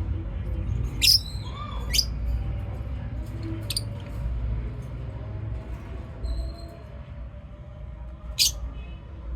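Lovebirds giving a handful of short, sharp, shrill chirps, spread out with a long gap before the last, over a steady low background rumble.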